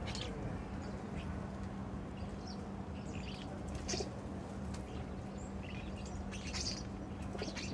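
Small garden birds chirping in short, scattered calls, over a steady low hum.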